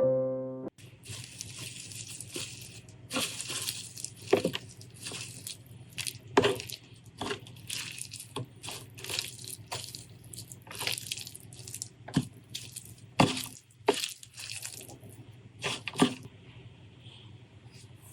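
Close-miked eating sounds: wet chewing and mouth smacks, broken by irregular sharp crisp snaps and clicks.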